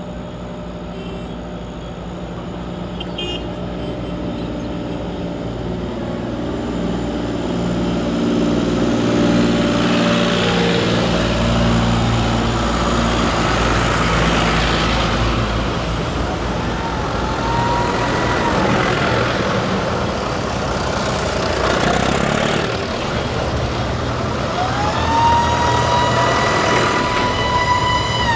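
Tractor engines running as tractors pass, growing louder over the first ten seconds or so. In the second half a siren-like tone rises, holds and falls twice, the second time held for about three seconds.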